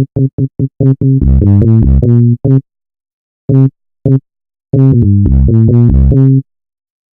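u-he Zebralette software synthesizer playing a low, bass-register preset: a few quick staccato notes, then a longer run of changing notes, two short stabs, and a held phrase that cuts off abruptly about six and a half seconds in.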